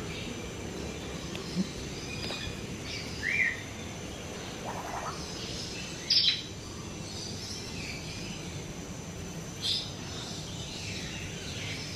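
Scattered chirps and calls from several birds over a steady background hiss. A couple of short sharp calls stand out louder, about six and ten seconds in.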